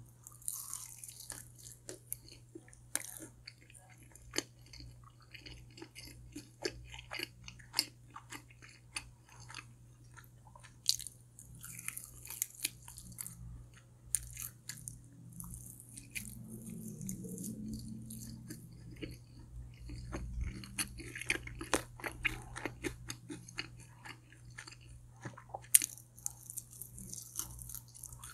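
Close-miked chewing and crunching of crispy fried food, with many sharp bites and crunches throughout; the sharpest crunch comes near the end.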